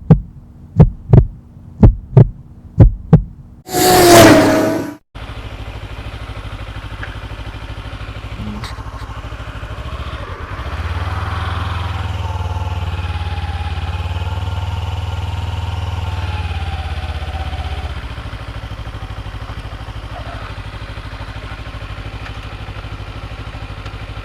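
Evenly spaced heartbeat-like thumps about twice a second, then a loud burst lasting about a second, then a sport motorcycle's engine running steadily, louder for several seconds in the middle.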